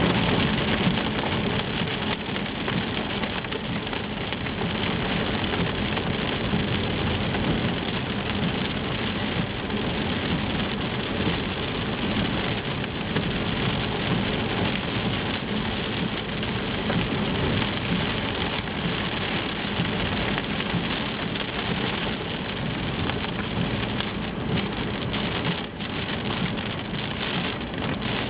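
Steady rain falling and pattering.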